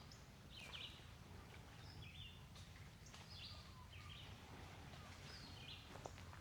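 Faint bird calls: short high chirps repeated about once or twice a second, over quiet woodland background.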